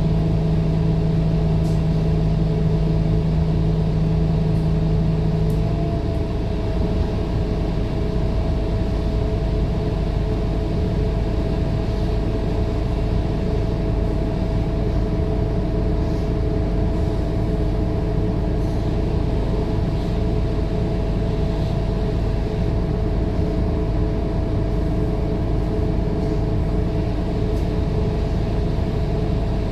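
Scania K230UB city bus's diesel engine and drivetrain running steadily while driving. A strong low droning tone drops out about six seconds in, leaving a steady hum.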